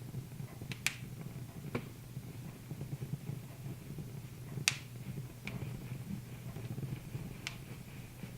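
Wood fire in a fireplace crackling: a handful of sharp, irregular pops over a low steady rush, the loudest a little under five seconds in.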